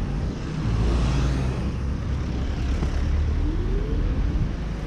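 A motor vehicle running close by, with a steady low rumble and road noise; a short rising whine about three and a half seconds in.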